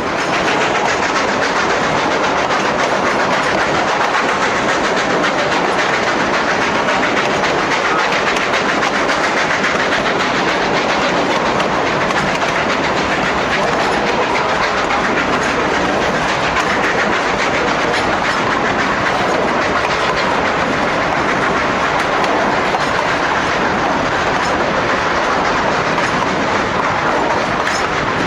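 Durango & Silverton narrow gauge train running along the track: a steady, loud rush and clatter of wheels on rails.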